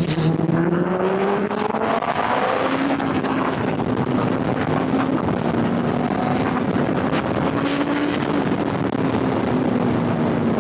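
Kawasaki Ninja ZX-10R's inline-four engine under way on the road, climbing in pitch as it accelerates over the first two or three seconds, then holding a fairly steady cruise and easing off slightly near the end, with wind and road noise underneath.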